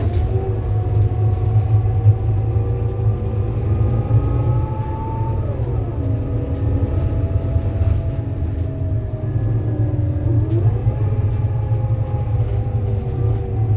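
Scania K230UB bus engine pulling through its ZF Ecomat automatic gearbox over a deep rumble. The engine note climbs for about five seconds, drops sharply at a gear change, jumps up again about ten seconds in, then eases off near the end.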